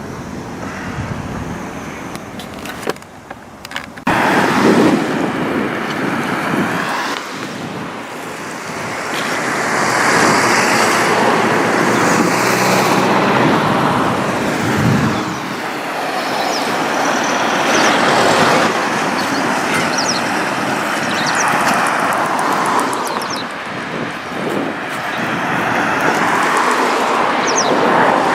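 Road traffic: cars passing one after another, their tyre and engine noise swelling and fading every few seconds.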